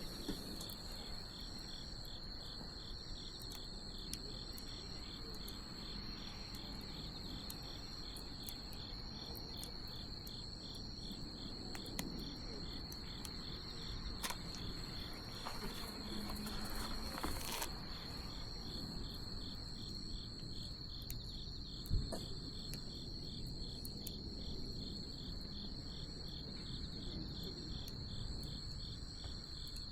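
Crickets chirping steadily in a high, evenly pulsing trill over the crackle of a wood bonfire, with one sharp pop from the fire about two-thirds of the way through.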